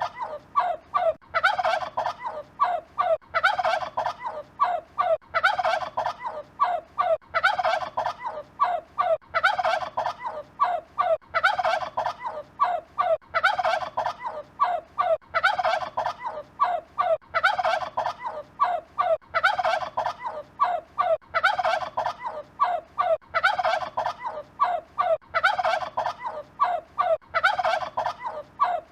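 A turkey gobbling over and over, a rapid rattling call repeated about every two seconds.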